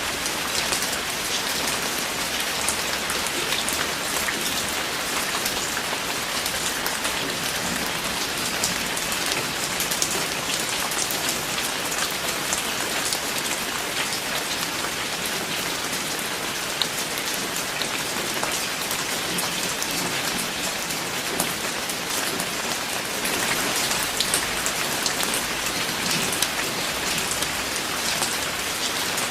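Steady rainfall, with many individual drops pattering on a surface.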